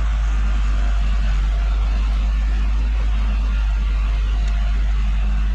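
Farm tractor engine running steadily with the snow blower attached, a constant low rumble.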